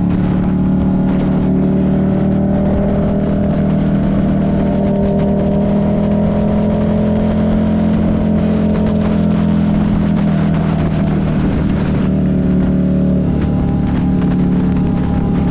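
Buell 1125CR's 1125 cc liquid-cooled V-twin running at a steady cruising speed under light throttle, its pitch holding steady, with a short easing and change of pitch about thirteen seconds in.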